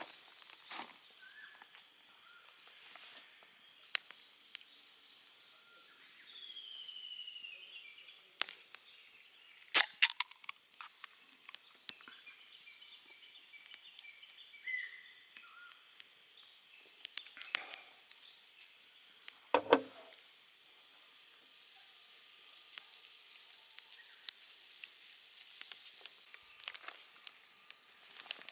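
Campfire crackling, with scattered sharp pops and snaps, and faint bird calls in the background.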